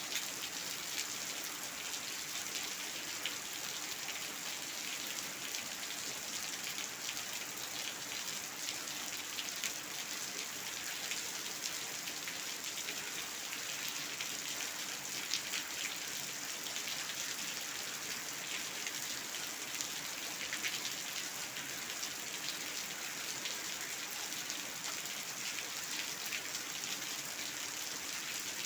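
Steady rain falling on a hard floor in front of a house, an even hiss full of fine drop splashes.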